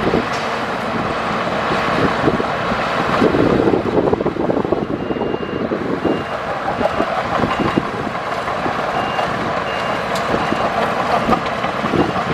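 Heavy diesel earthmoving machinery running under load, with a reversing alarm giving a series of short high beeps from about five seconds in to about ten.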